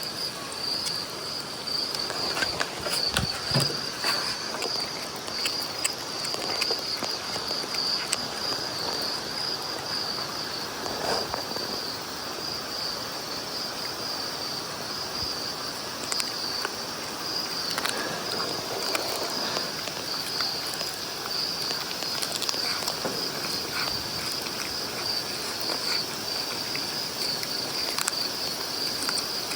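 A steady, high insect chorus chirring outdoors, with scattered light knocks and rustles over it.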